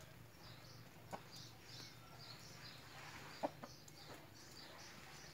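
Faint bird calls, a run of short high chirps repeating every fraction of a second, with a couple of sharp clicks.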